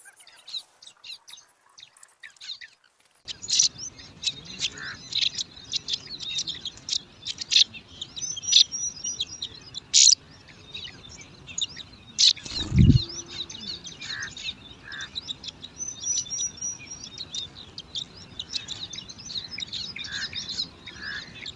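Bar-winged prinia (ciblek) nestlings giving rapid, high-pitched begging chirps, many calls overlapping. There is a single loud low thump about halfway through.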